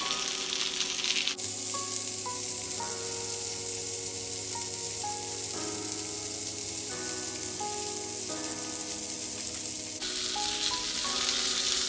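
Salmon fillets frying in olive oil in a pan, with a steady sizzle. Soft background music plays underneath.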